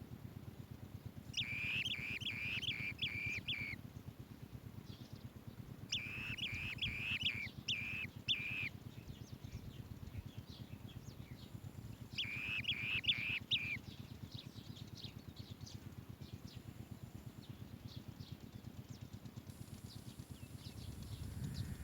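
Asian green bee-eaters calling: three bursts of rapid, repeated high notes, with fainter scattered calls between and after them, over a steady low rumble.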